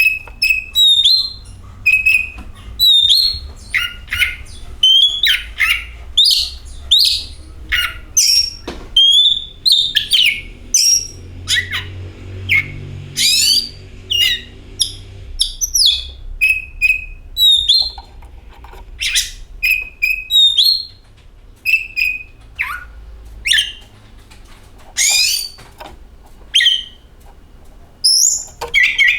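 Oriental magpie-robin (kacer) singing: a rapid, varied run of short whistled notes, sweeps and chirps in quick phrases with brief pauses, the kind of song used to lure caged kacer into song.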